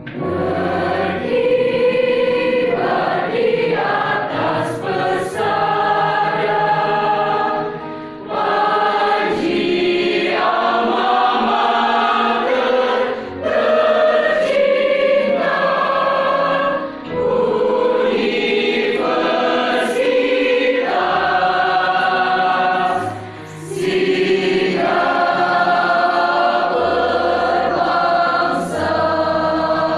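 Mixed choir of young men's and women's voices singing a slow piece in sustained chords, in phrases a few seconds long with short breaks between them.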